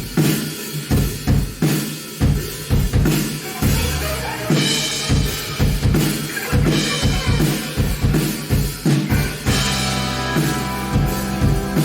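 Live rock band playing an instrumental passage: a drum kit beat with kick and snare hits, over bass and guitar.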